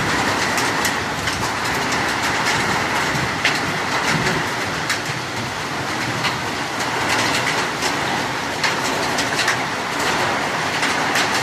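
Rain falling steadily: a dense hiss broken by irregular sharp ticks of individual drops striking.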